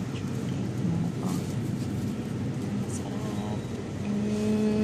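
Steady low background hum of a convenience store, with faint voices in the background and a short held tone near the end.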